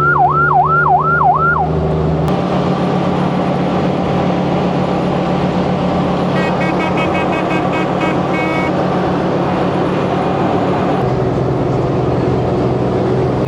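Army duck (DUKW) amphibious truck's engine running with a steady drone, shifting slightly in pitch about two seconds in. A siren yelps rapidly, about three rises and falls a second, for the first two seconds.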